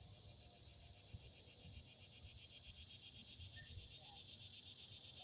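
Faint steady chorus of insects: a rapid, evenly pulsing trill with a higher steady hiss above it, over faint low rumbles.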